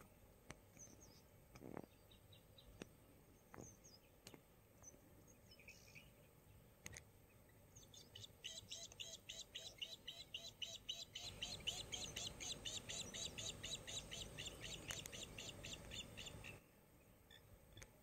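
Birds calling outdoors: a few short high chirps, then about eight seconds in a fast run of the same high note repeated about five times a second that stops abruptly near the end.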